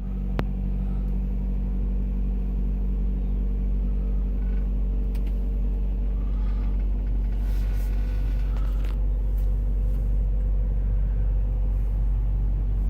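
Steady low rumble of an idling truck engine, with a few faint clicks over it.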